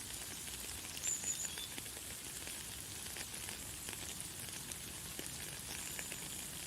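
Light, fine rain falling steadily: a soft hiss full of tiny drop ticks. A bird gives a brief high chirp about a second in.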